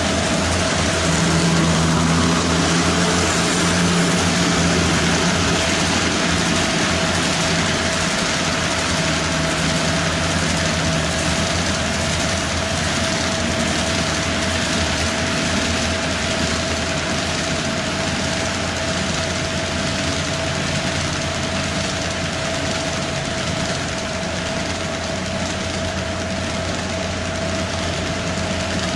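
HO-scale model train running on the layout: a steady rolling and running noise with a constant high hum throughout, slightly louder in the first few seconds.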